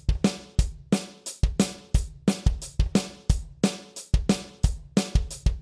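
Acoustic drum kit playing a steady quarter-note rock groove at about three beats a second: hi-hat on every beat, snare on the backbeat and bass drum with extra offbeat kicks between the beats.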